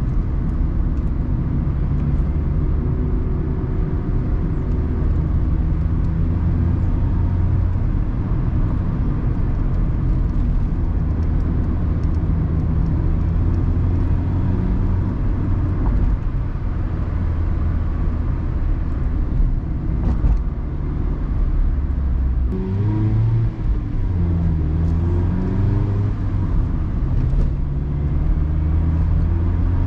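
Mazda Roadster (ND MX-5) four-cylinder engine running steadily as the car drives, heard from the open-top cabin together with wind and tyre noise. A little past two-thirds of the way through the engine note breaks off and shifts up and down in pitch for a couple of seconds, then settles back to a steady drone.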